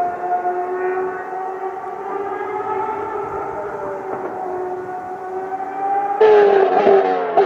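Ferrari racing car engines running at high revs on track, a steady whine that drifts slowly up and down in pitch. About six seconds in a louder car comes in suddenly, its engine pitch falling.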